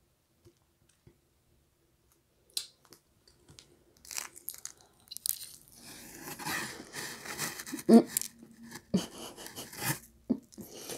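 A person biting into and chewing a slice of pizza. It is near silent for the first couple of seconds, then come a few clicks and steady chewing, with sharper, louder bites near the end.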